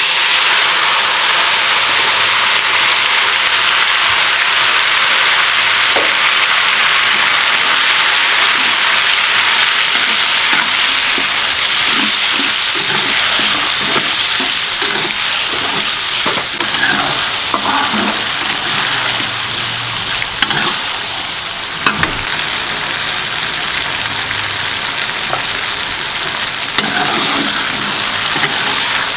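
Ground chili spice paste sizzling loudly in hot frying oil, a sudden sizzle as it goes into the pan that then runs on steadily. It is stirred with a utensil that knocks against the pan now and then.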